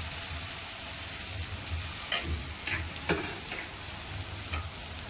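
Chopped garlic and ginger with whole spices sizzling steadily in hot oil in a metal kadai, stirred with a steel spoon at first, with a few sharp clicks in the middle.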